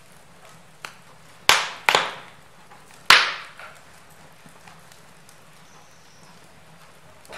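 Wood logs burning in a fireplace, crackling over a faint steady hiss. Four sharp pops from the burning wood: a small one about a second in, two loud ones around a second and a half and two seconds in, and the loudest about three seconds in.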